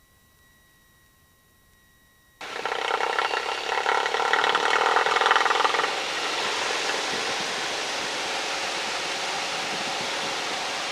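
After about two seconds of near silence with a faint high steady whine, the engine and airflow noise of a Cessna 172 XP comes in suddenly. It is loudest for a few seconds, then settles to a steady rush.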